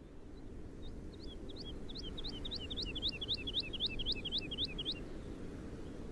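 A songbird singing one fast run of repeated two-note phrases, about three a second, each a high note sliding down followed by a lower one. The song starts about a second in, grows louder and stops near five seconds.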